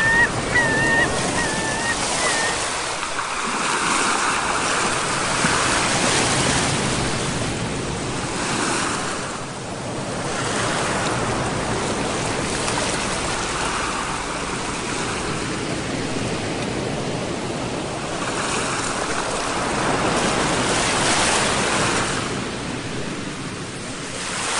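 Sea waves surging and washing ashore, the surf rising and falling in slow swells several seconds apart. A few short, high whistled calls sound in the first couple of seconds.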